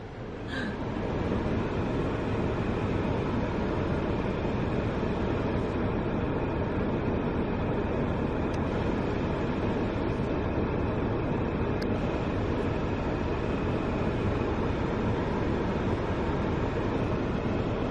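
Steady rumbling noise of a moving vehicle, building up over the first second or so and then holding even.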